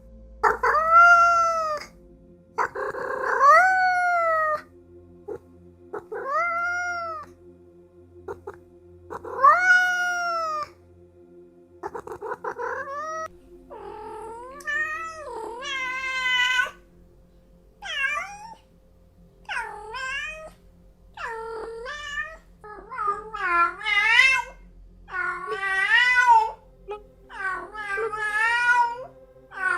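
Domestic cat meowing over and over. Each long meow rises and then falls in pitch. At first they come about every three seconds; in the second half they come quicker and wobble in pitch.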